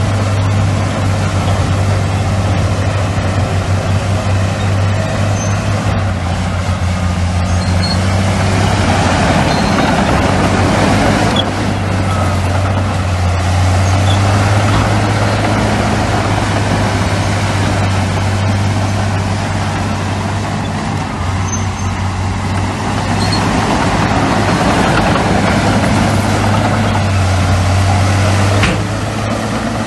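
Heavy diesel earthmoving machinery running: a steady low engine drone with louder stretches of engine and working noise that swell and fall twice. The louder noise cuts off suddenly near the end.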